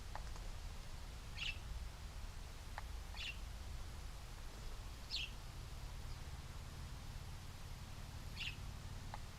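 A small bird chirping: four short, high chirps a couple of seconds apart, with a few faint ticks, over a steady low outdoor rumble.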